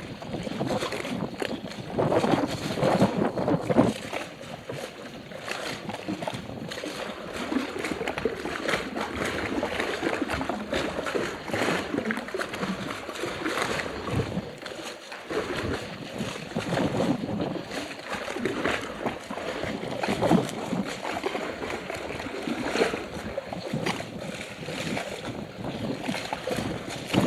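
Choppy lake water splashing and sloshing irregularly, stirred up by a strong wind.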